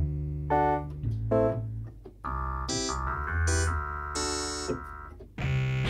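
Yamaha PSR-175 portable keyboard playing preset voices: chords and single notes over low bass notes. The voice changes about two seconds in to a brighter, held sound, and changes again near the end.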